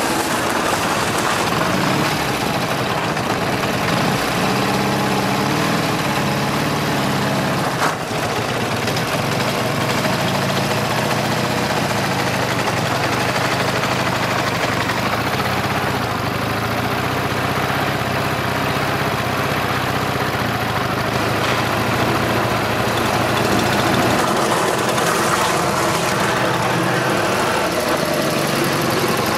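Ural Cossack motorcycle's flat-twin engine running, its pitch rising and falling several times with the throttle.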